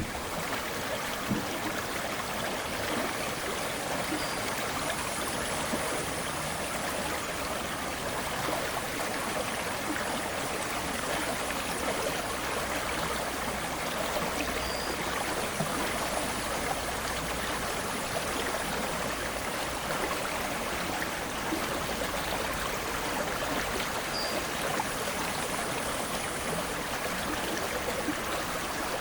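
Water of the Aare river flowing steadily, an even rushing with no breaks.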